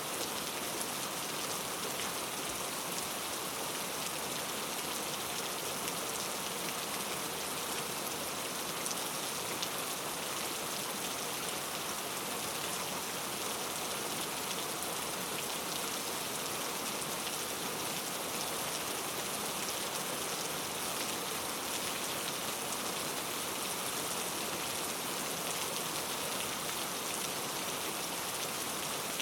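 Steady rain falling, an even hiss with fine drop patter and no breaks.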